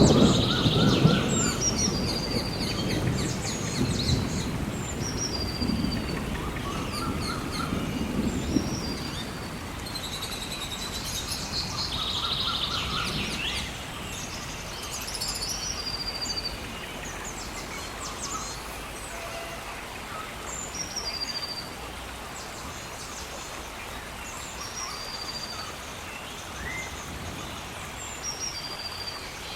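Rainforest ambience: birds repeating short, high, falling calls every second or two over a steady hiss of rain. A low rumble of thunder is loudest at the start and fades out over about the first nine seconds.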